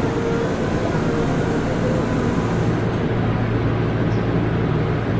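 Running noise inside a Toei 12-600 series linear-motor subway car travelling through a tunnel: a steady, loud rumble with several constant motor and wheel hum tones. The high hiss fades slightly about three seconds in.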